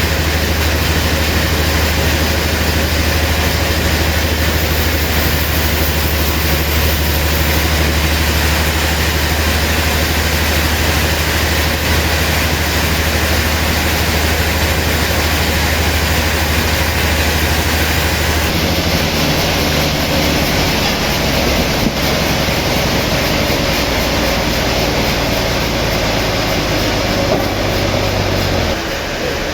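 Sawmill machinery running steadily, a loud spread of mechanical noise over a deep, constant hum. The hum changes about two-thirds of the way in and eases off just before the end.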